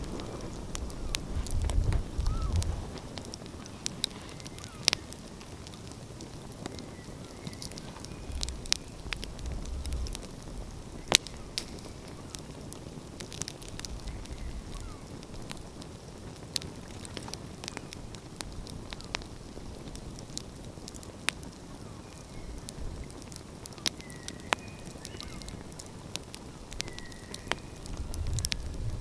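Wood fire crackling, with frequent sharp pops and snaps over a steady low hiss. A low rumble swells briefly a few times and grows louder near the end.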